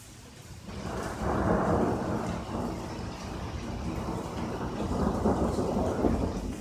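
A roll of thunder builds under a second in and rumbles on without a break, swelling and easing.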